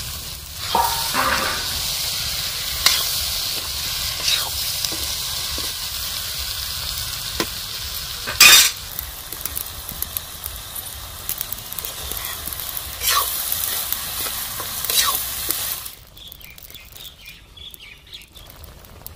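Sliced bottle gourd sizzling as it fries with crab masala in an iron kadhai, with a metal spatula scraping and clinking against the pan as it is stirred. About sixteen seconds in the sizzle drops away to a much quieter background.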